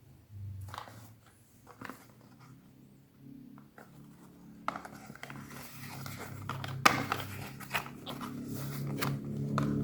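Soap packaging being handled and opened by hand: scattered scratches and clicks, then denser crinkling and scraping with one sharp snap in the middle. Background music fades in and grows louder toward the end.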